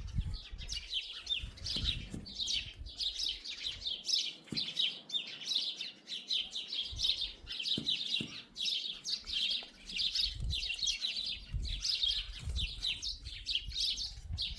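Birds chirping continuously in quick, high, repeated notes, several a second, with low rumbling underneath.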